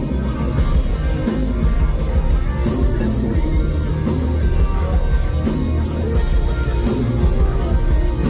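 Loud live rock band music with electric guitar, dense and bass-heavy.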